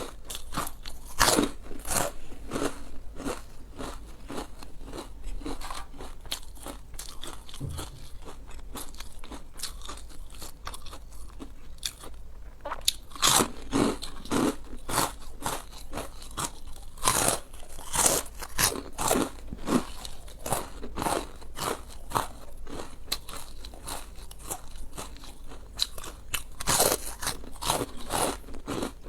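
Close-miked eating: crisp, crackling bites of crunchy food and chewing, with louder bursts of crunching every few seconds.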